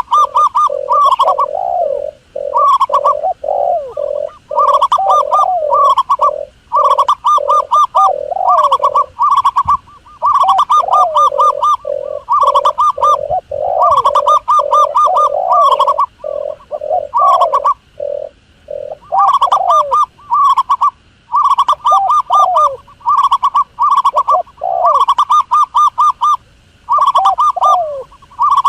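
Doves cooing in rapid runs of short, repeated notes, phrase after phrase with brief pauses, one lower series and one higher series overlapping.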